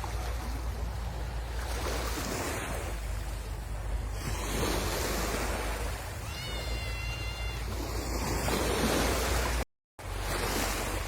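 Sea waves breaking and washing on a beach, a continuous rush that swells and ebbs every few seconds, with wind on the microphone. A short high call sounds over the surf about six seconds in, and the sound cuts out for a moment near the end.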